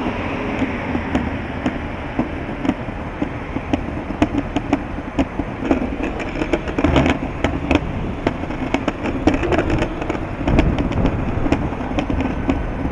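Strong wind buffeting the microphone: a steady rumble, broken by frequent sharp clicks and knocks.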